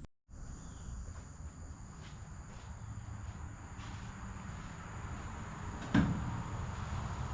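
Steady high-pitched insect chirring, like crickets, over a low background rumble, with a single knock about six seconds in.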